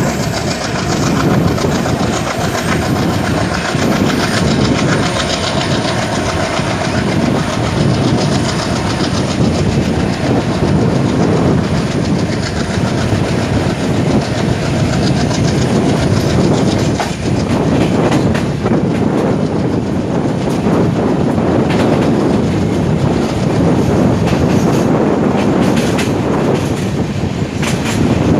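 Passenger train running on the line: a steady loud rumble of the coaches, with the wheels clacking over rail joints.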